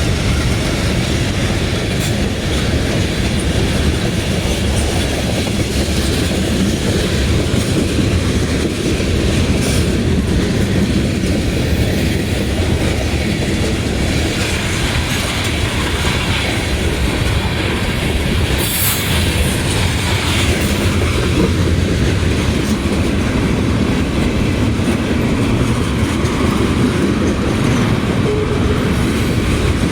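Freight train cars rolling slowly past, a loud, steady rumble of steel wheels on the rails.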